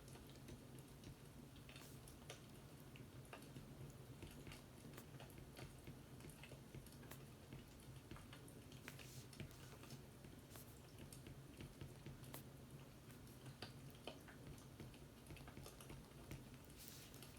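Faint crackling of a wood fire: irregular small pops and snaps, a few louder ones, over a low steady hum.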